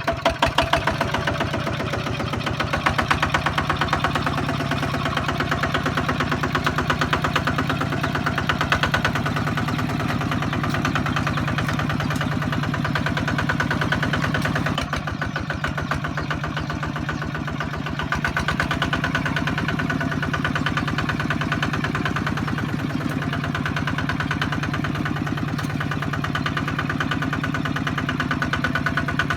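Kubota ZT155 two-wheel tractor's single-cylinder diesel engine running steadily, with rapid, even firing; it eases off briefly around halfway.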